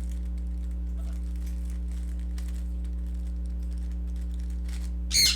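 Rubik's cube being turned through an algorithm: faint, quick plastic clicks and clacks of the layers turning, over a steady electrical hum.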